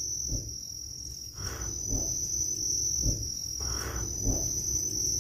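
Crickets chirring steadily, with soft, low, irregular thuds about once a second: the unexplained knocking the listeners are straining to hear, which one of them later puts down to an animal.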